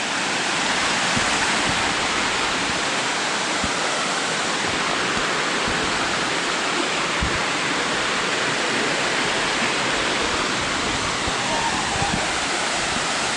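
Waterfall rushing steadily, a cascade of some 40 to 50 feet of fall.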